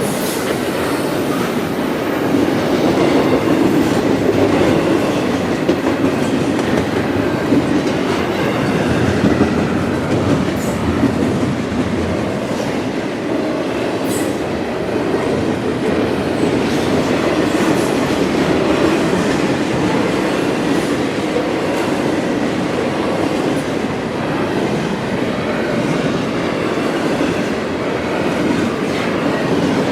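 Freight train cars rolling past steadily: a continuous rumble of wheels on rail with scattered clicks over the rail joints.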